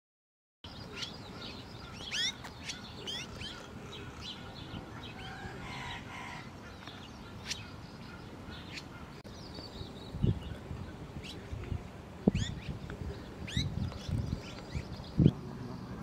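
Small birds chirping outdoors: short, high chirps scattered over a steady background hiss, with a few low thumps in the second half.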